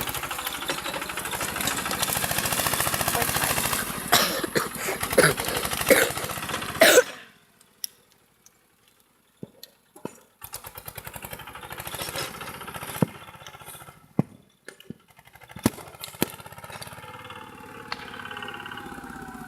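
Tractor engine running hard with a fast, even beat and a few sharp cracks, then cutting off suddenly about seven seconds in. After about three seconds of near silence, engine running is heard again, quieter, with scattered sharp clicks.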